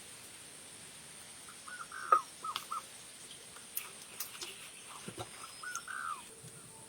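A bird calling in two short runs of notes, with scattered sharp clicks and knocks, the loudest about two seconds in, over a steady high hiss.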